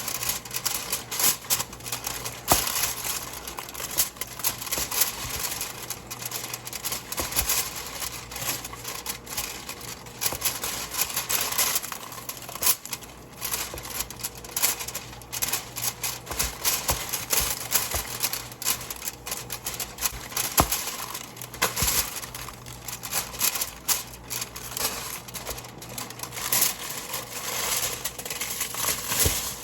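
Hands rubbing a sugar-and-spice seasoning into a rack of ribs, giving a continuous irregular crackling and rustling of many small scrapes and clicks.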